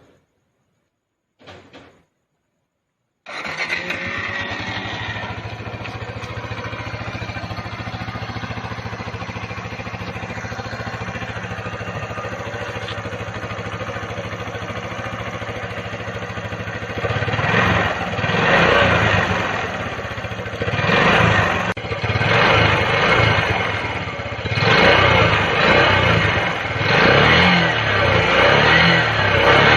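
Kawasaki Z125's small single-cylinder four-stroke engine, after two brief sounds, starts about three seconds in and idles steadily. From about halfway it is revved in repeated blips, each rising and falling, and the owner counts its valve noise as fixed.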